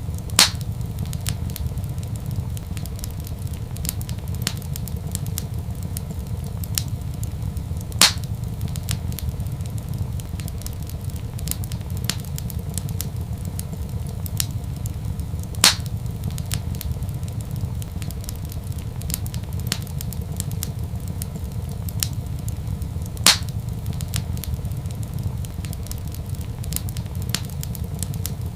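Wood fire in a fireplace crackling steadily over a low rumble, with many small ticks and four louder pops about seven to eight seconds apart.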